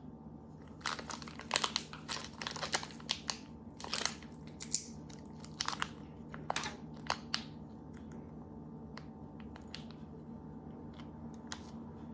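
Plastic packaging crinkling and crackling as it is handled and worked open, busiest in the first half and then more scattered.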